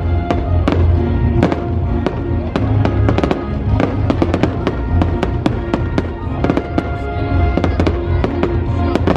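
Aerial firework shells bursting, many sharp bangs in quick succession, over loud music with a strong bass from the show's soundtrack.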